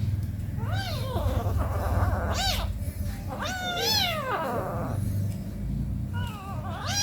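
An 18-day-old kitten mewing: four or five high-pitched meows, each rising and then falling, the longest and loudest about halfway through.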